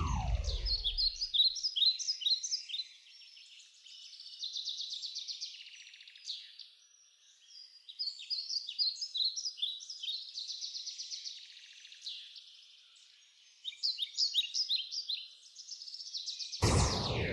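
Birds chirping and singing throughout, in many short, quick falling notes. A loud sweep gliding steeply down from high to low fades out at the start, and another begins near the end.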